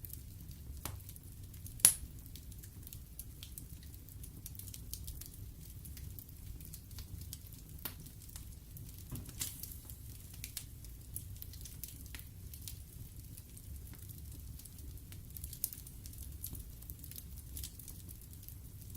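Wood fire burning in a fireplace: a steady low rumble of flames with scattered crackles and pops from the logs, one sharp, loud pop about two seconds in.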